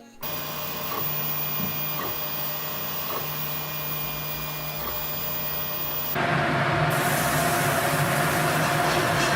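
A 3D food printer running with a steady mechanical hum and a few held tones. About six seconds in, a louder, even hiss suddenly takes over.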